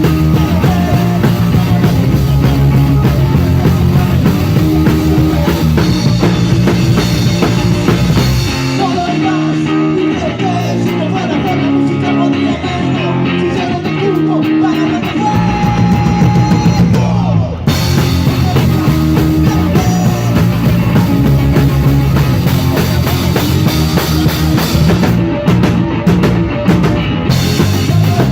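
Live rock band playing through a soundcheck, with electric guitars, bass and drum kit. About nine seconds in the low end and cymbals drop out for a sparser passage with a melodic lead line, and the full band comes back in around six to eight seconds later.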